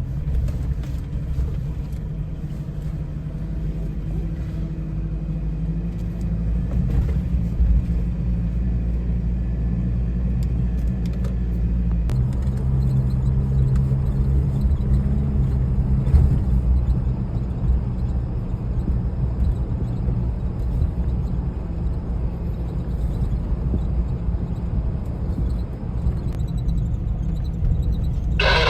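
A vehicle engine running with a steady low rumble, its pitch stepping up about twelve seconds in. A short, brighter burst of sound comes in right at the end.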